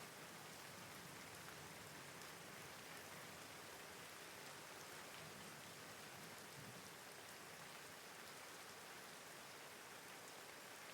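Steady, soft rainfall: an even hiss of rain with faint, scattered drop ticks.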